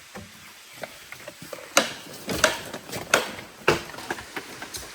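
A run of sharp knocks: four strong ones about two-thirds of a second apart in the second half, with lighter taps between them.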